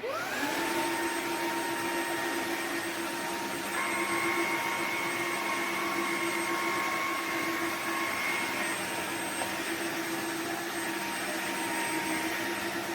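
Dreame wet-dry floor vacuum started in auto mode: its motor spins up to speed at the start, then runs steadily with a whine. An extra higher tone joins from about four to eight and a half seconds in.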